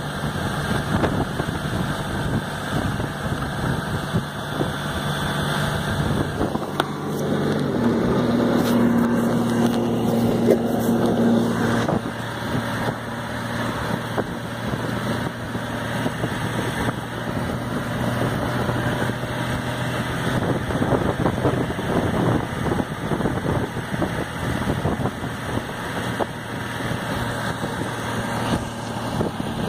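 Motorcycle engine running under way, with wind noise on the microphone. The engine note changes pitch about seven seconds in and runs louder for a few seconds, then settles into a steady cruise.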